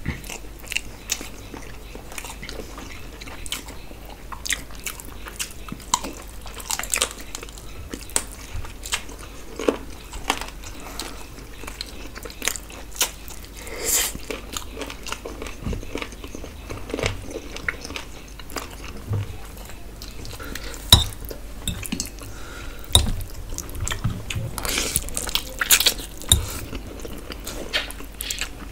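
Two people eating close to the microphone: chewing and biting, with wet mouth smacks and clicks at irregular intervals.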